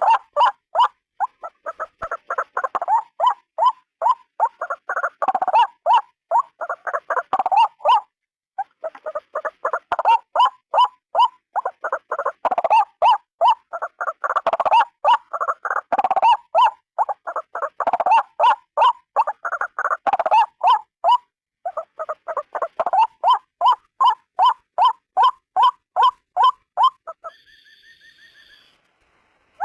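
White-breasted waterhen (ruak-ruak) calling: a rapid, evenly repeated run of harsh calls, about three or four a second, broken by short pauses. Near the end the calls stop for a second or two and a quieter, higher steady tone sounds instead.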